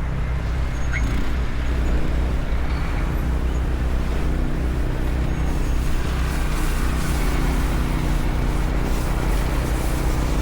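A large motor vehicle's engine running steadily, a low hum that holds its pitch, over street traffic noise.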